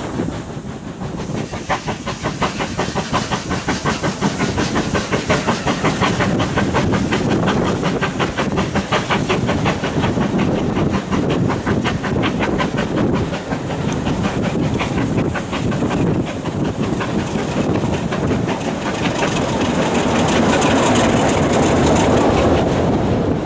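Passenger coaches of a steam train hauled by an S160 locomotive rolling past, wheels clicking rapidly and rhythmically over the rail joints, with steam hiss. A rushing noise swells near the end as the last coach passes.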